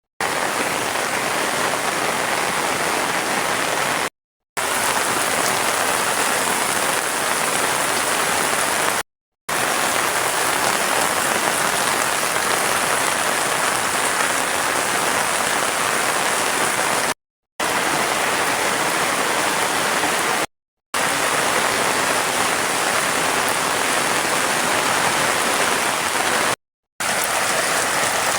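Heavy rain falling in a steady, dense hiss, broken by five brief total silences.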